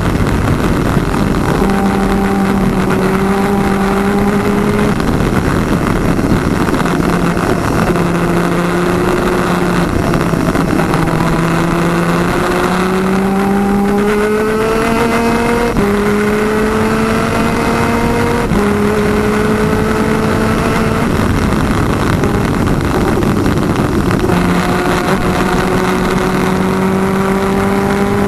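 A PVP twin-250cc superkart engine running at racing speed over a steady rushing noise. Its pitch climbs, then drops back in steps several times as it shifts gears. About three-quarters of the way through the engine note fades for a few seconds, then climbs again.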